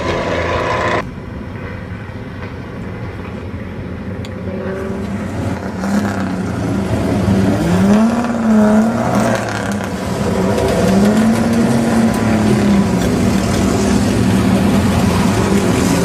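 Vintage racing car engines running, cut off abruptly about a second in. Then a vintage racing car's engine runs at low speed, louder as it comes near, its pitch rising and falling several times as it is blipped.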